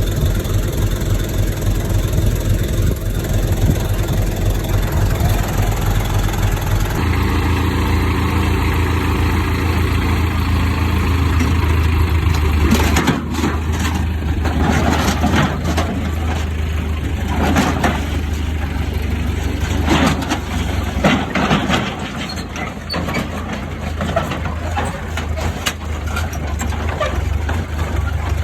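Diesel engines of earthmoving machines running, a small crawler bulldozer and dump trucks on a land-filling job, with a steady low engine note. From about halfway on, irregular clanks and knocks sound over the engines.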